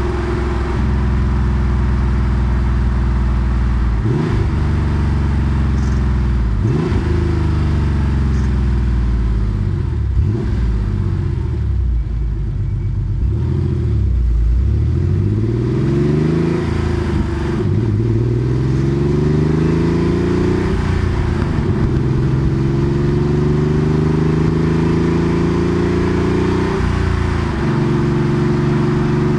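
Porsche 964 Carrera 2's air-cooled 3.6-litre flat-six, through a centre straight-through exhaust, pulling up through the gears. Its pitch climbs and drops back at each upshift, falls and builds again partway through, then settles to a steady cruise near the end.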